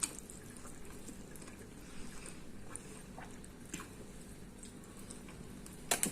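Quiet, scattered small wet clicks and smacks of saucy beef ribs being handled and eaten, with one sharper click near the end.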